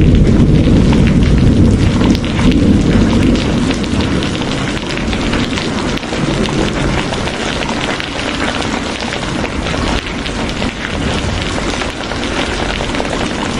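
Heavy rain falling steadily, a dense hiss full of fine drop patter. A low rumble of thunder dies away over the first two seconds.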